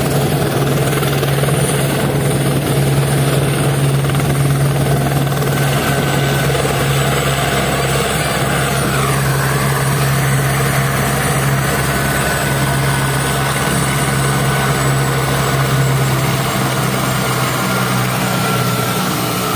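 Air ambulance helicopter with loud, steady rotor and engine noise.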